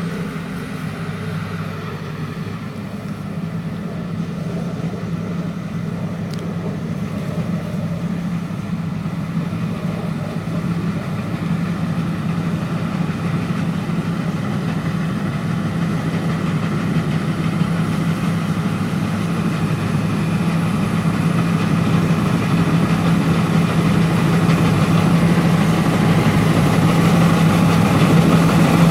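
Rice combine harvester's engine running steadily, gradually growing louder.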